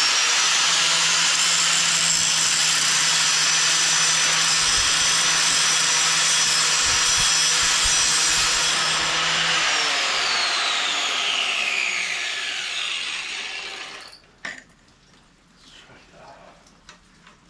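Electric angle grinder spinning up and cutting into metal with a steady high whine and loud grinding noise. About ten seconds in it is let off and its whine falls away as it spins down to a stop.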